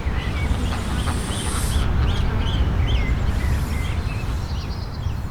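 Greylag goslings peeping: short high calls, about two to three a second, thinning out toward the end, over a steady low rumble of wind on the microphone.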